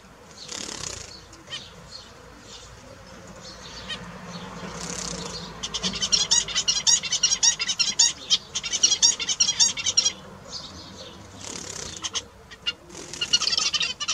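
Small birds chirping: a fast run of short, high calls from about six to ten seconds in, with shorter bursts of chirps and rustling before and after.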